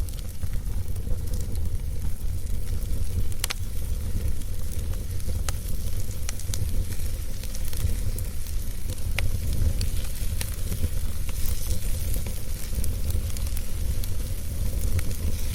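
Wood fire burning steadily with a low rumble and soft hiss, and scattered sharp crackles and pops from the burning wood.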